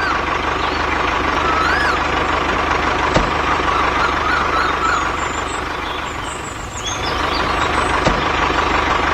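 Small electric motor running steadily with a constant whine and a low buzz, with two short clicks, about three seconds in and again about eight seconds in.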